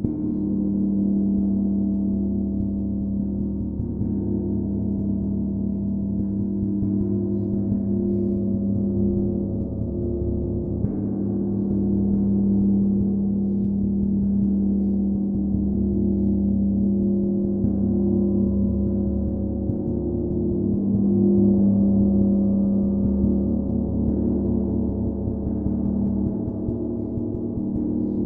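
A gong played continuously in a sound bath: a dense, sustained wash of low overlapping tones that swells and eases gently without pause.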